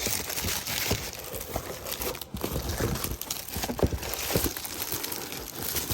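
Packs of firecrackers being handled in their wrapping: irregular crinkling and rustling, with scattered small knocks.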